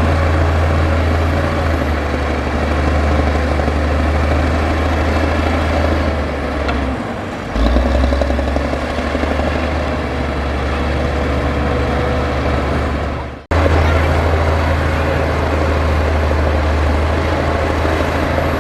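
Heavy diesel earthmoving machinery running with a steady deep engine drone. The engine note sags briefly near the middle and then picks up again, and the sound cuts out for an instant about two-thirds of the way through.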